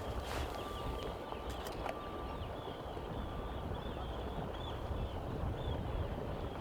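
A bird calling over and over in short, high, arched chirps, about two or three a second, over a low rumble of wind on the microphone.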